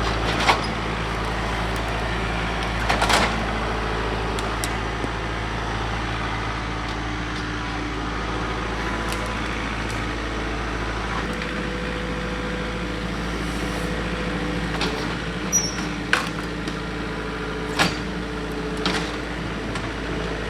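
John Deere 4052R compact tractor's diesel engine running steadily under load while a bush hog cuts a path through brush. A few sharp cracks and knocks come near the start and again in the last few seconds.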